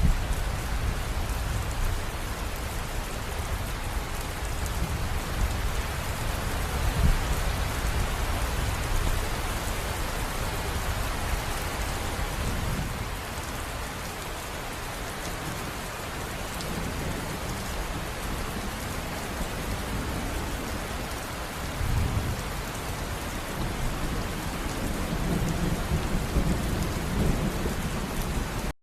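River water rushing steadily over rocks in an even hiss, under a low rumble that swells and eases every few seconds.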